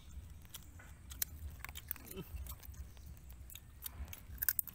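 A person chewing and biting on crab, with scattered wet mouth clicks and a quick cluster of sharp clicks near the end, over a steady low hum.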